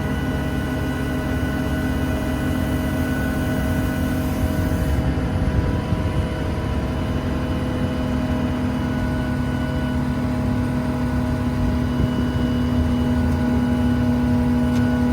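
Truck-mounted Boss hydraulic air compressor running off the Ram 5500's PTO, over the truck's engine: a steady hum with a strong steady whine that grows louder in the second half.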